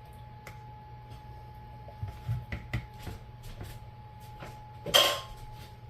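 Kitchen utensil noises as crushed pineapple is emptied from a can into the bowl: a few light clicks and scrapes, then one loud sharp clatter about five seconds in, over a faint steady hum.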